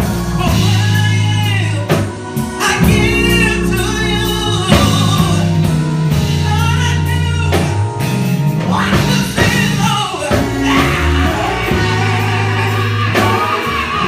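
Gospel song: singing over a band with a steady bass line and drums.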